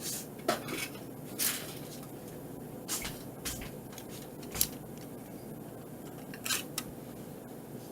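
Kitchen handling noises: a few short, light knocks and rustles spread over several seconds, over a faint steady background noise.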